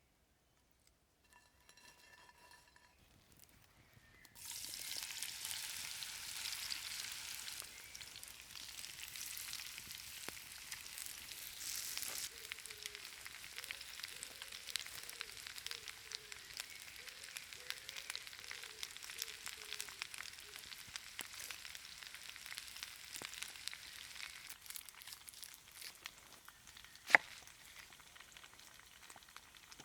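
Food frying in a pan over a campfire: a steady sizzle that starts suddenly about four seconds in, with scattered small crackles and a sharp click near the end.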